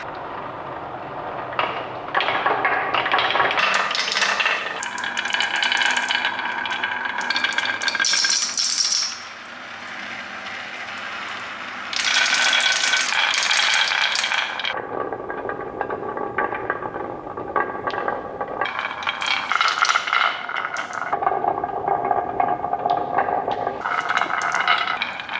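Small hard balls rattling and clattering along toy track, with a sustained rolling rattle whose tone changes every few seconds as they pass onto different track sections.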